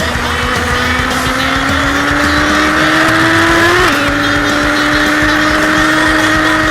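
Motorcycle engine pulling hard. Its pitch rises steadily, drops suddenly about four seconds in as it shifts up a gear, then holds a steady note under load.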